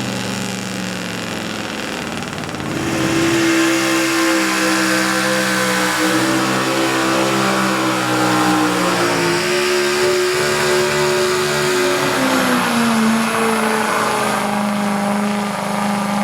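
Pulling truck's engine under load, revving up about three seconds in and held at high revs, its pitch climbing slowly and then easing down near the end.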